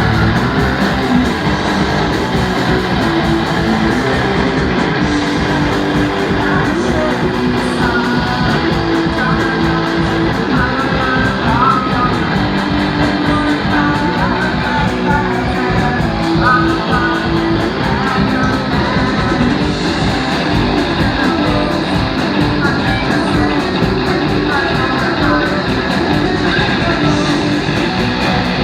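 Rock band playing live, with an electric guitar lead of short, bending notes over the rest of the band.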